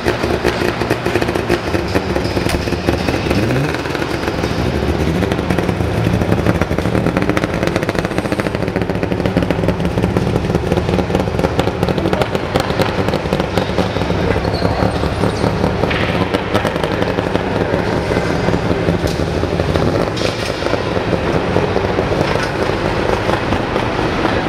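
Saab 96's three-cylinder two-stroke engine running, a steady crackling buzz of rapid firing, with a short rise in revs about three seconds in.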